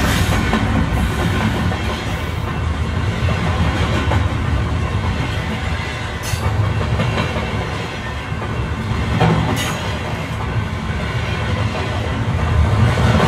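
Train running on rails: a steady rumble with clickety-clack and two sharp clicks about halfway through.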